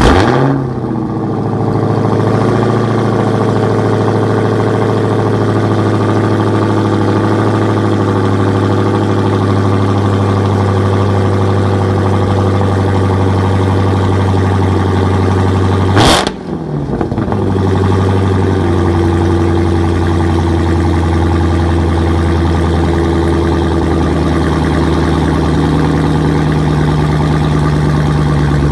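Dodge Challenger Hellcat's supercharged 6.2-litre HEMI V8 on a cold start through a GT Haus cat-back exhaust with its valves open: it fires with a loud flare at the very start, then settles into a steady, loud fast idle. About 16 seconds in there is a brief sharp break before the steady idle carries on.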